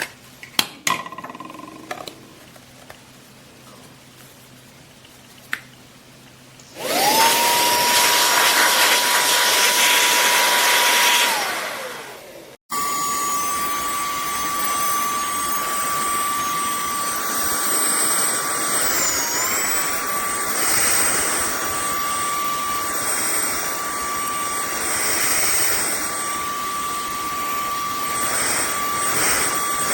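A few handling clicks, then the Minthouz cordless handheld vacuum cleaner's motor is switched on. It spins up to a steady high whine, runs for about four seconds and winds down. After a sudden cut it runs again with a steady whine, its pitch dipping briefly once past the middle as the airflow is loaded.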